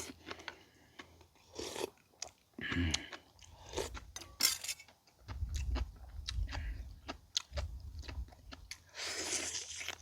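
A person chewing a mouthful of rice topped with aged kimchi, up close, with small clicks and mouth smacks coming at irregular intervals.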